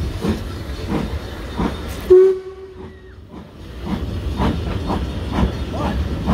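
Vintage railway carriages passing close by at a level crossing, their wheels clacking in a steady rhythm. A brief tone sounds about two seconds in.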